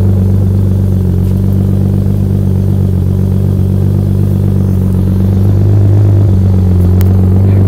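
Turbocharged BMW E36's exhaust idling steadily, a low engine note that grows slightly louder about six seconds in.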